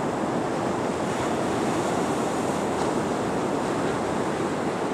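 Steady rush of ocean surf and wind, with wind buffeting the microphone.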